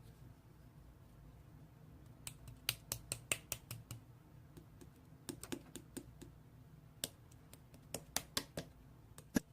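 Slime being pressed and stretched by hand, giving irregular sharp clicks and small pops, several a second in clusters, from about two seconds in.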